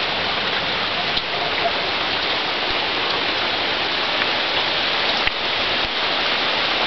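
Steady rain falling, an even hiss, with a couple of faint ticks.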